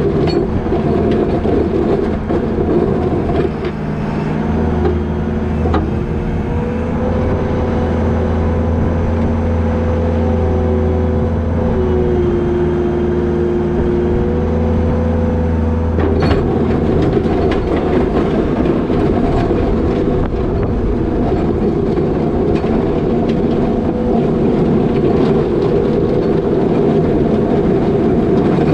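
New Holland L220 skid steer's diesel engine running, loud and continuous. From about four seconds in a steady whine sits over the engine and steps down in pitch a couple of times; about sixteen seconds in it gives way to a rougher, noisier rumble.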